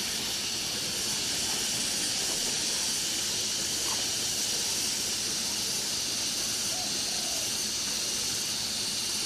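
Chicken satay skewers sizzling steadily on a charcoal grill.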